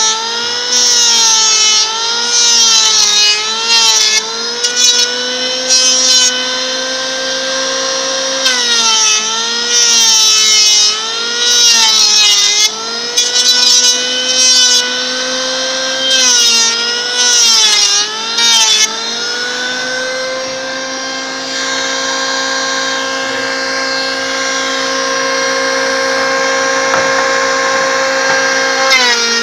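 Electric wood planer running, its motor pitch dipping each time the blades bite into a board, with bursts of shaving noise as passes are made; the cutting stops about two-thirds of the way through and the motor runs on steadily without load.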